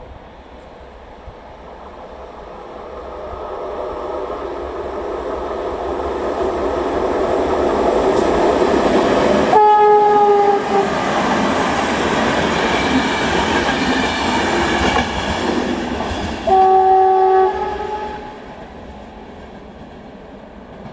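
CFR electric locomotive hauling a passenger train past, its rail and running noise building up, then dying away. Two horn blasts of about a second each sound roughly seven seconds apart.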